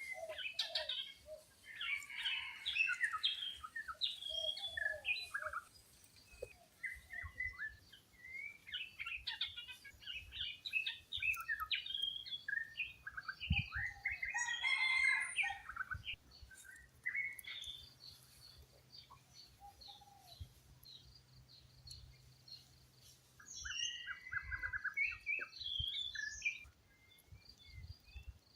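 Several wild birds chirping and calling in quick, overlapping bursts, busiest in the first half and again near the end.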